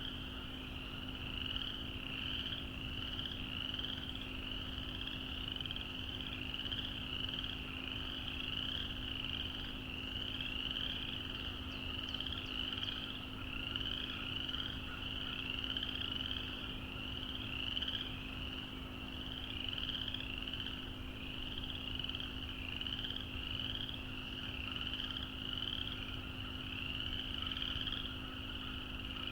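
A dense chorus of small frogs calling together: a constant, overlapping mass of high, upward-slurred peeps, with a faint steady hum beneath.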